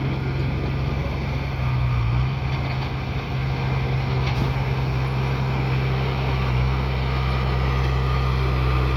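Bulldozer's heavy diesel engine running steadily with a deep, even drone.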